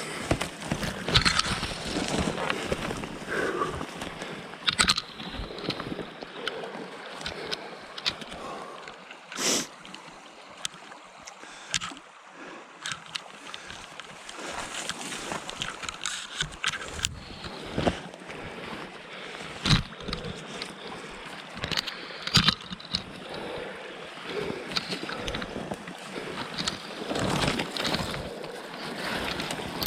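Packraft being paddled: water sloshing and gurgling around the paddle and hull, with many irregular sharp knocks and clacks.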